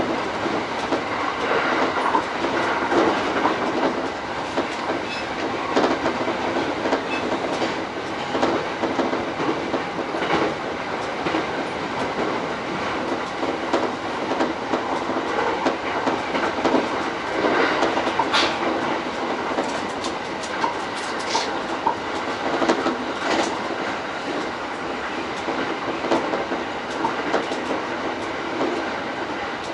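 E231-series electric commuter train running between stations, heard from inside the car: steady wheel and rail noise with irregular clicks as the wheels cross rail joints.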